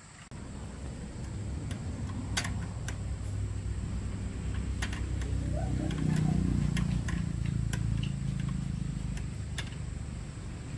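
Diesel engine running with a steady low drone that sets in suddenly just after the start and grows louder toward the middle, with scattered metallic clicks and taps over it.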